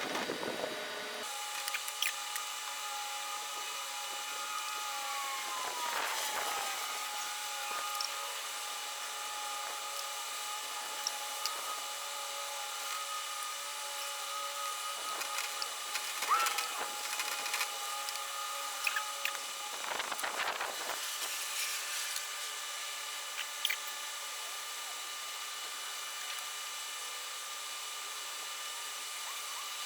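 A small power tool's motor running steadily, its pitch dipping briefly about six seconds in, with scattered clicks and knocks.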